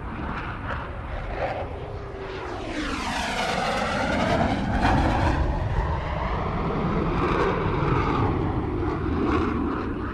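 Airplane taking off, its engines at full power: a dense rumble that slowly swells, with a sweeping whoosh a few seconds in as it passes.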